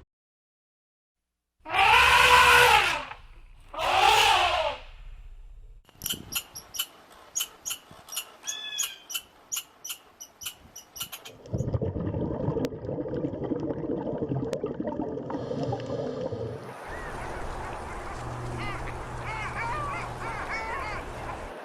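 A run of different animal calls: two loud, drawn-out calls, then a quick series of short chirps and clicks, then longer stretches of noisier, wavering calling.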